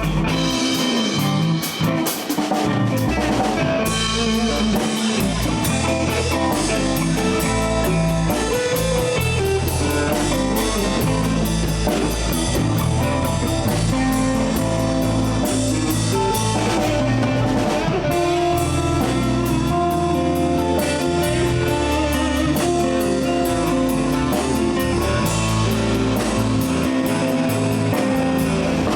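Live blues band playing an instrumental break: a guitar solo with sustained notes over drum kit and bass guitar, cymbals ticking steadily throughout.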